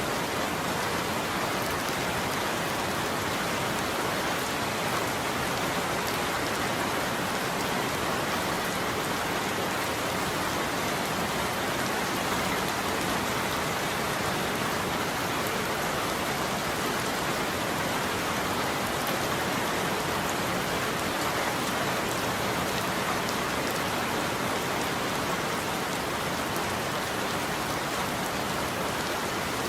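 Steady rain falling on a roof, an even continuous patter with no thunder.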